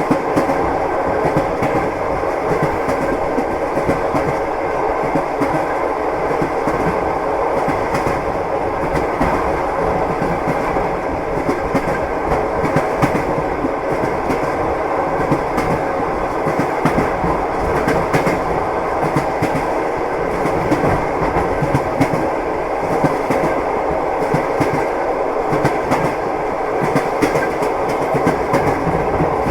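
Moving train: a steady rumble with the clickety-clack of wheels over rail joints, short clicks coming again and again throughout.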